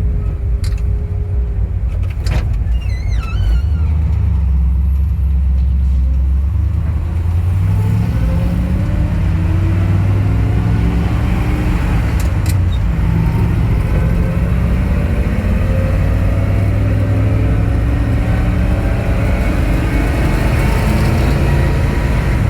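1962 Dodge D-series truck's engine running under way, its pitch rising several times as the truck picks up speed. A few short clicks are heard near the start and about halfway through.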